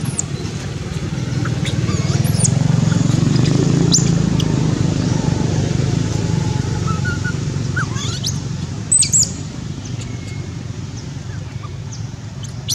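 Birds chirping in short, high, scattered calls, one sharper and louder about nine seconds in, over a steady low outdoor rumble.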